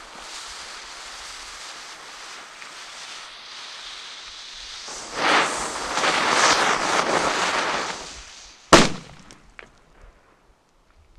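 Cialfir Trueno Super Extremo Verde F3 firecracker going off. A steady hiss runs for about five seconds, then a louder rushing burn of its pre-burner lasts about three seconds, ending in a single sharp, really hefty bang. A few faint crackles follow the bang.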